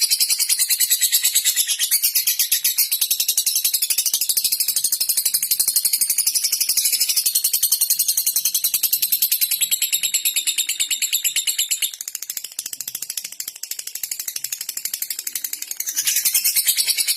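Lovebird chattering in a long, fast run of high ticking clicks, the 'ngetik' chatter of a male in full song, dropping a little in loudness for a few seconds about twelve seconds in.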